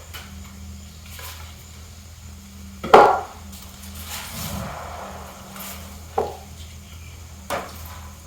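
A tree being felled nearby: one loud woody crack or thud about three seconds in, followed by a brief rushing crash and a couple of lighter knocks, over a steady low hum.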